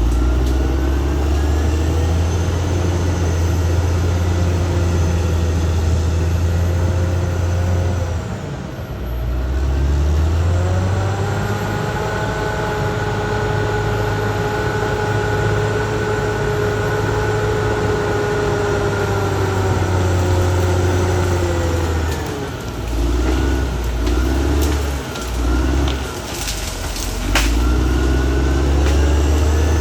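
Caterpillar D6R XL bulldozer's diesel engine running hard while working. The revs dip briefly about nine seconds in, then climb and hold. Near the end they fall away and surge unevenly for a few seconds before steadying.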